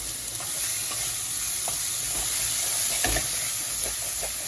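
Sliced onions sizzling steadily in hot oil in a pan as they are sautéed to soften, with a spoon stirring and tapping against the pan now and then.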